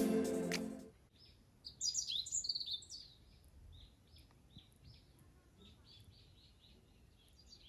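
Background music fades out about a second in. Small birds then chirp: a quick flurry of high calls in the second and third seconds, followed by fainter single chirps repeating at intervals.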